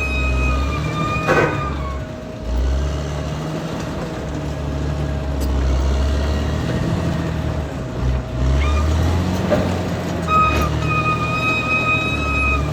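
Caterpillar D6R XL bulldozer's diesel engine working under varying load, its low rumble rising and falling, with a steady high whine that drops out a little over a second in and returns near the end. A few sharp clanks sound from the machine along the way.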